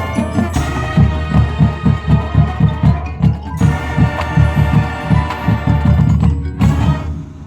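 High school marching band playing: sustained brass chords over rapid low drum strokes, about six a second. The band cuts off sharply near the end.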